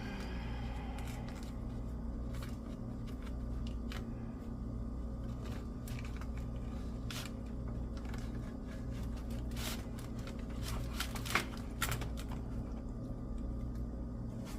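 Faint scrapes and a few light ticks of a utensil cutting through and lifting baked pie crust, over a steady low hum.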